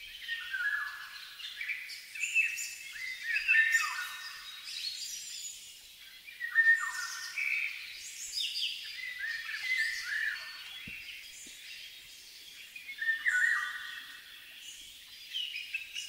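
Several small birds chirping and calling over one another: a busy mix of short, high chirps and quick whistled glides.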